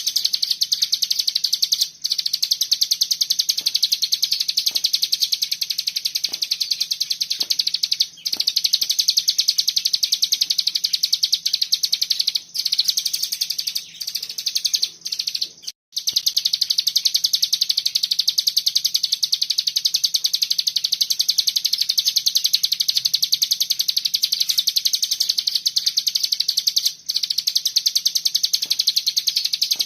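Cigun (ciblek gunung) songbird singing a long, very fast rattling trill in the 'bren' style, tight and almost unbroken, with a few brief pauses, the longest about a quarter of the way past the middle.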